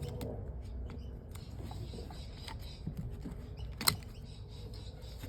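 Small clicks and scrapes of hand work on winch wiring and fittings, with one sharp click about four seconds in.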